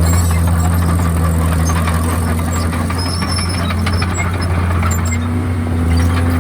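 Komatsu D51PX bulldozer's diesel engine running steadily under load, with short high squeaks from the tracks; the engine note lifts slightly about five seconds in.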